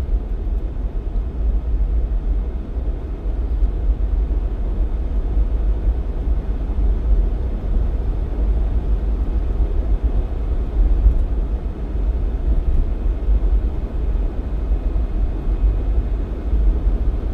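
Jeep driving on a snowy road, heard from inside the cabin: a steady low rumble of engine and road noise.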